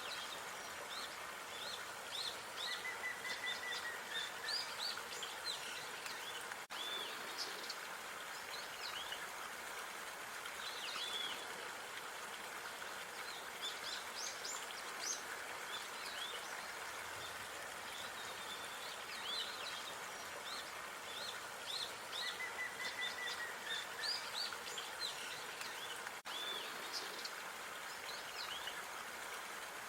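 Small birds chirping and twittering: many short, high calls and a couple of brief trills over a steady, even background hiss.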